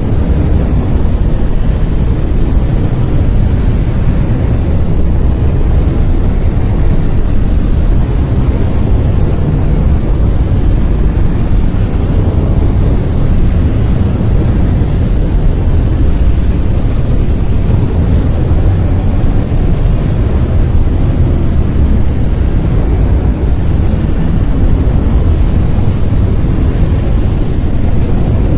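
Brown noise: a steady, loud, deep rumbling hiss, strongest in the lows and falling off toward the highs, with no tones or rhythm.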